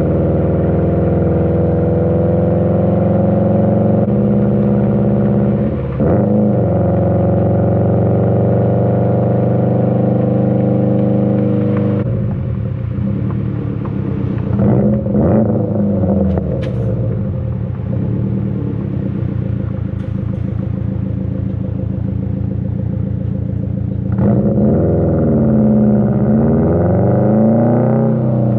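2020 Subaru WRX STI's turbocharged flat-four engine running through an AWE Track exhaust while cruising. There is a brief dip in engine pitch about six seconds in, and near the end the revs rise and fall several times.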